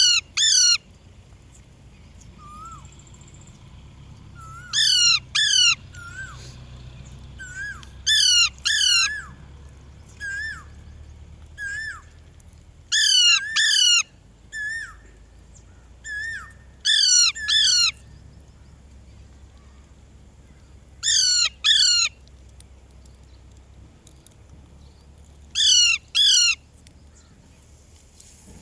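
A parrot calling: loud double calls repeated about every four seconds, with quieter short single calls in between.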